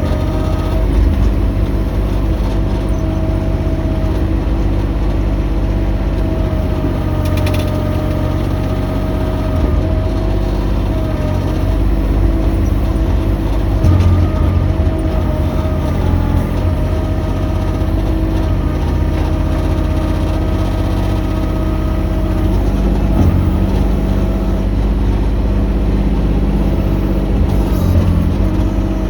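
Mini excavator engine running steadily under work, with a steady whine above the engine note.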